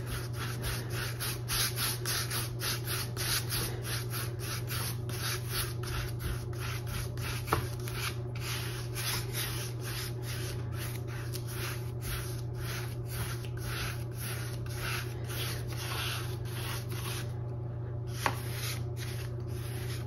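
A large filbert paintbrush scrubbing back and forth across a stretched canvas: a steady run of short rubbing strokes, about two to three a second, over a low steady hum, with a light tick twice.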